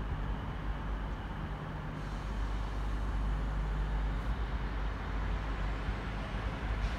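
A train running by: a steady rumble with a low engine hum underneath.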